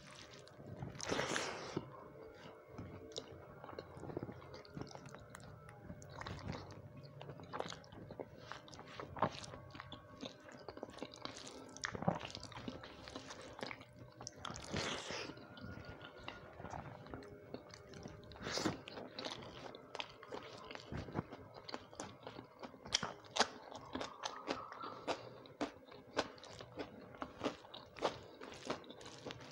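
Close-up eating sounds: irregular chewing and crunching of rice and crisp fried vegetables, with sharp crunchy bites now and then.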